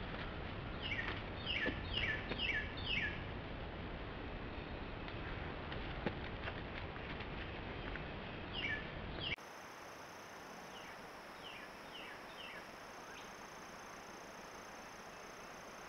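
A songbird singing a run of about five repeated, quickly falling notes, over a steady hiss of trail-camera background noise. After a sudden drop in level, a fainter run of similar notes follows.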